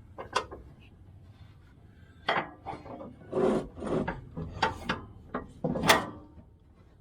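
Irregular clunks, knocks and scrapes of mower-deck parts and linkage being handled and fitted under a riding lawn tractor. The loudest knock comes near the end.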